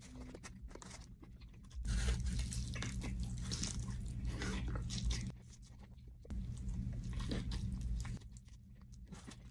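A person biting into and chewing a chicken sandwich, in two louder stretches starting about two and six seconds in.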